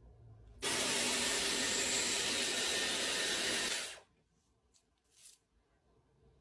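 A 5-in-1 hot-air brush dryer's fan motor switched on, blowing with a steady rush of air for about three and a half seconds, then switched off abruptly.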